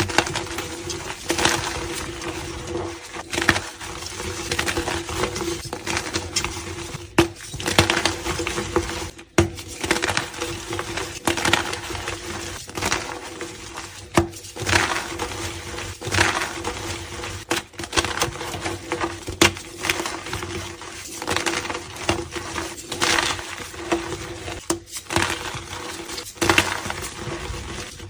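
Blocks of gym chalk being crushed, a long run of dry crumbling crunches roughly every second, with a few abrupt cuts between takes and a faint steady hum underneath.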